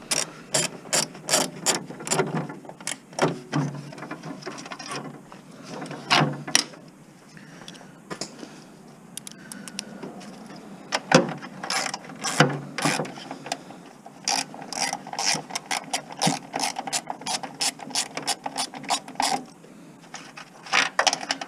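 Hand tools working on metal: a long run of sharp, irregular clicks and clanks as fasteners are undone and an appliance is stripped down for scrap.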